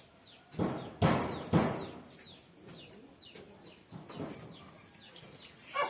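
Birds calling in the background, with repeated short falling chirps. A few loud bursts of noise come about a second in.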